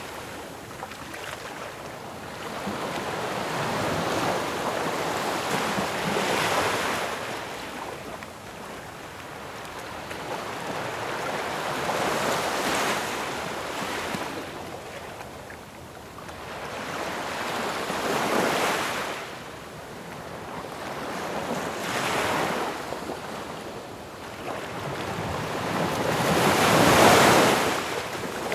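Ocean waves breaking on shore, each crash swelling and washing back every four to six seconds, the loudest one near the end.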